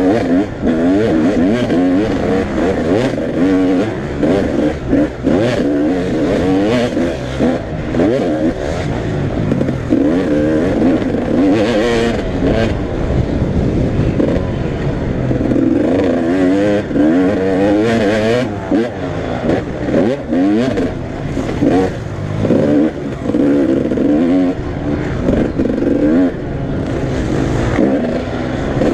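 Several motocross bikes racing together, their engines revving up and down without a break, the pitches of different bikes rising and falling over one another as the riders work the throttle.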